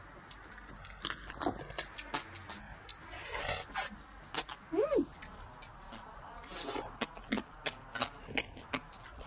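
Close-miked eating of passion fruit pulp: wet slurping and chewing, with the crunchy seeds cracking between the teeth in irregular sharp clicks. A short hummed 'mm' comes about five seconds in.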